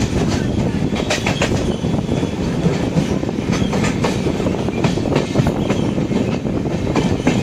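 Rajyarani Express running along the track: a steady low rumble with irregular clicks of the wheels passing over rail joints.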